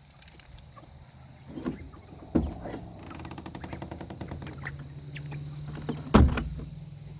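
A door knocking shut twice, about four seconds apart, with a rattling buzz between the knocks.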